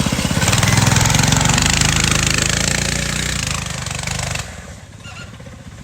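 Mini bike's Predator 224 single-cylinder four-stroke engine running hard at high throttle, then its sound drops away suddenly about four and a half seconds in.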